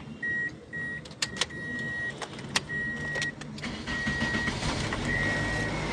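Toyota Corolla's warning chime beeping steadily, about twice a second, with a few sharp clicks as the ignition is worked; then the engine starts and runs, its low hum building through the second half.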